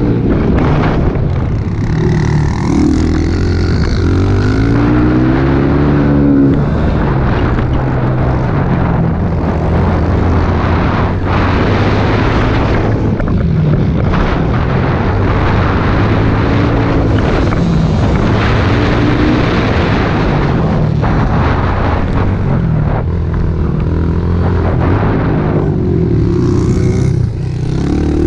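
Small single-cylinder four-stroke pit bike engine being ridden hard, its pitch repeatedly climbing as the throttle is opened and dropping as it shifts or backs off.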